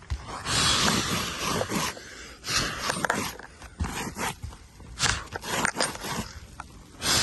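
Rough scraping and rubbing on asphalt roof shingles in irregular strokes, one longer stroke about half a second in, then a series of shorter ones.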